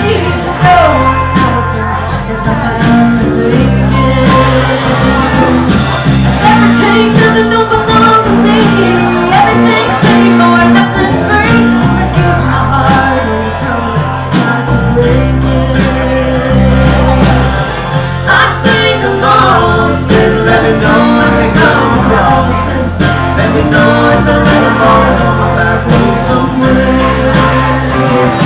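Live band playing a song, with electric bass notes under guitar and singing.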